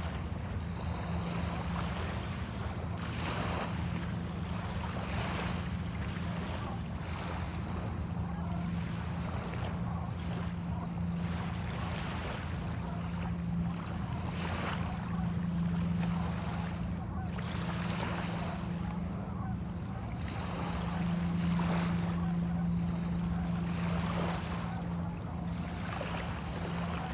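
Small bay waves washing and lapping on a sandy shore, swelling every second or two. A steady low hum runs underneath, growing and fading.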